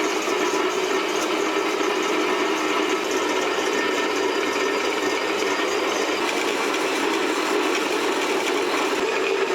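Horizontal metal-cutting bandsaw running steadily through a cut in a metal trolley frame: an even mechanical drone.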